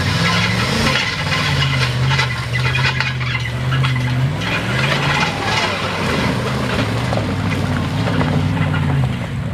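Big Dodge mud truck's engine running loud and steady, then revved up and down several times from a little past the middle, over a rough hiss of tyres and mud.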